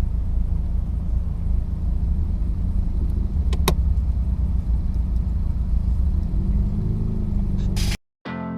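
2008 Saturn Sky Redline roadster's turbocharged four-cylinder engine running under way with the top down, a steady low rumble of engine, road and wind, with a sharp click about three and a half seconds in. Near the end the engine note rises, then the sound cuts off abruptly and guitar music starts.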